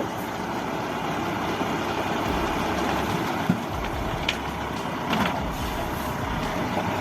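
Truck engine running steadily, with a few faint brief clicks around the middle.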